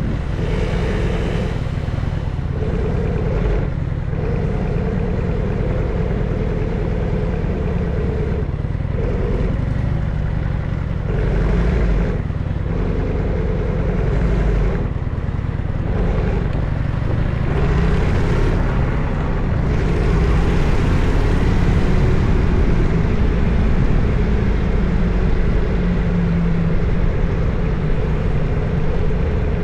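Harley-Davidson FXSTS's Evolution V-twin engine running while the motorcycle is ridden, its note rising and falling with the throttle and growing louder about two-thirds of the way in.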